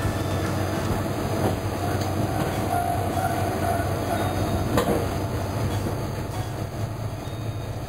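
Diesel railcar running along the track, heard from inside the car: a steady low engine hum with a couple of sharp clacks of the wheels over rail joints.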